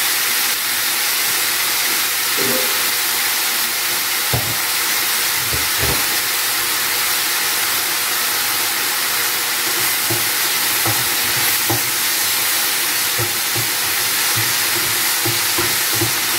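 Sliced mushrooms sizzling steadily in hot oil in a frying pan, with scattered light knocks of a wooden spatula against the pan, more frequent in the second half as the mushrooms are stirred.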